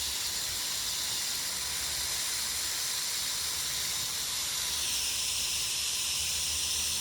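Water running to fill a birds' water hole, a steady hiss with a faint thin tone in it: the "funny noise" the water makes when it is on.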